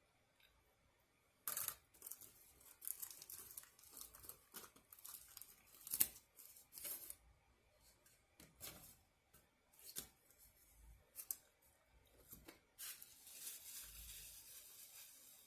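Close handling of a takeout meal and its packaging: an irregular run of sharp crackles, snaps and tearing sounds, with a longer rustle near the end.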